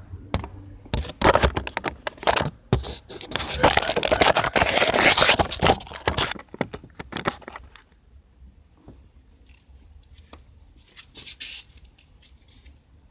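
Rummaging through tools by hand: a fast run of clicks and clatter with a stretch of rough scraping and rustling, then a few faint ticks over the last few seconds.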